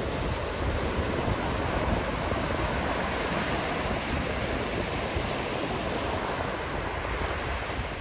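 Ocean surf breaking and washing on a beach, a continuous rushing hiss that swells a little a couple of seconds in.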